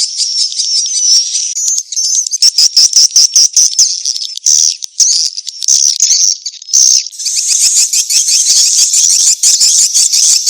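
Edible-nest swiftlets chittering and twittering in a dense, high-pitched stream of many overlapping rapid calls and clicks. This is a swiftlet lure call of the 'chasing to mate' kind, played to draw swiftlets into a swiftlet house.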